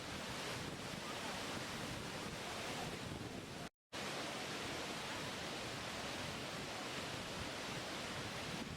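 Steady rush of falling water, an even hiss with no distinct events, that drops out to silence for a moment nearly four seconds in.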